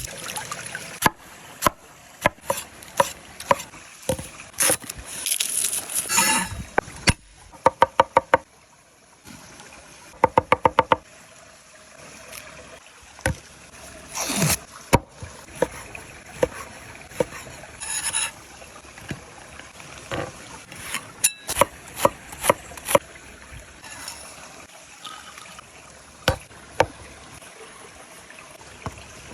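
Food preparation with a knife on a wooden board: scattered knocks and scrapes, with two quick runs of chopping strokes, about eight a second, a third of the way in.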